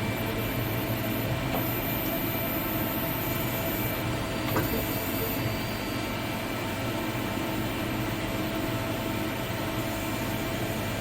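Selective laser melting metal 3D printer running: a steady machine hum with several steady tones over it, and a small click about four and a half seconds in.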